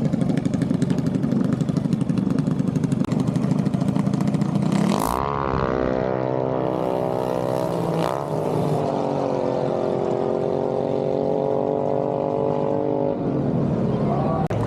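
Mini bike engine running with a fast low putter. About five seconds in, it revs up, rises again and holds at high revs for several seconds, then drops off near the end.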